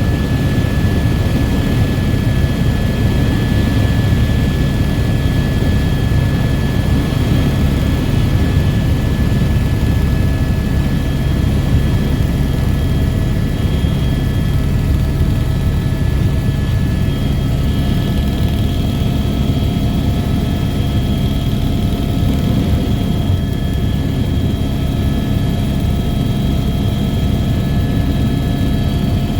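Helicopter running steadily: a loud, unbroken low rumble with a few steady whining tones above it.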